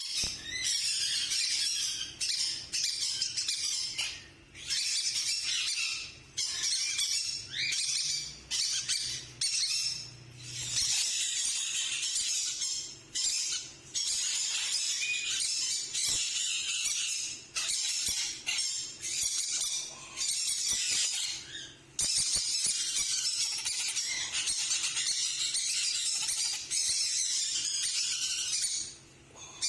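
Monk parakeets (Quaker parrots) squawking and chattering in harsh, high calls that come in runs of a second or two, broken by short pauses.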